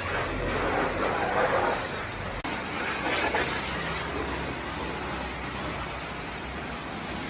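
High-pressure washer spraying water on a car, a steady loud hiss, with a brief cut-out about two and a half seconds in.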